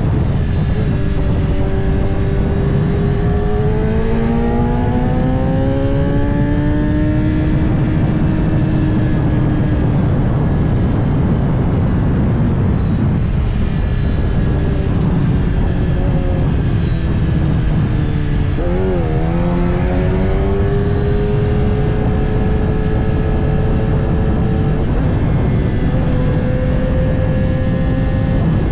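Kawasaki ZX-10R inline-four engine under way, rising in pitch as it accelerates a few seconds in, dipping briefly about two-thirds of the way through and then climbing again. Heavy wind rush from riding lies under the engine.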